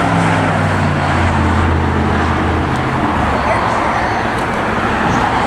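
Steady roar of road traffic, with a vehicle engine's low drone over the first three seconds that then fades.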